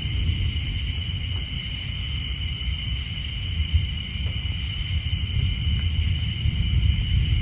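Night chorus of tree frogs and insects: steady high-pitched trilling, with a higher shrill layer that swells in and drops out every second or two, over a continuous low rumble of distant thunder.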